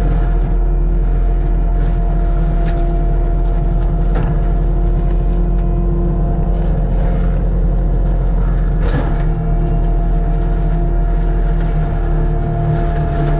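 Forestry mulcher's diesel engine running steadily, with a few sharp cracks or knocks as the head strikes wood, about two and a half, four and nine seconds in.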